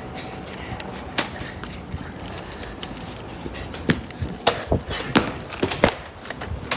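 A few sharp clicks and knocks: one about a second in, then a quick run of about six in the second half, over a steady outdoor background. These are the handling and knocking sounds of a close-range Nerf skirmish.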